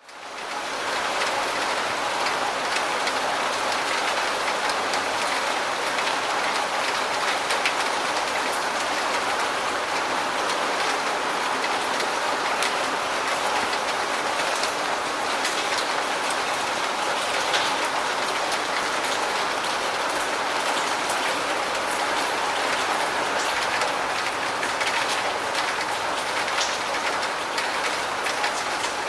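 Steady rain falling, an even wash with many small drop hits. It fades in over the first second.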